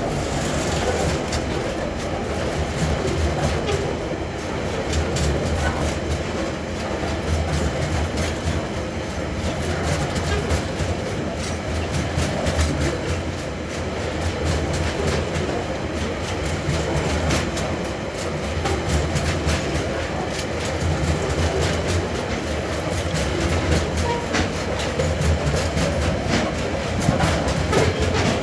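Coal hopper wagons of a freight train rolling past close by, their wheels clicking steadily over the rail joints with a continuous low rumble.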